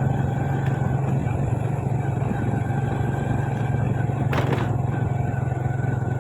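Motorcycle engine running steadily as the bike rides along. A short hiss cuts in briefly about four seconds in.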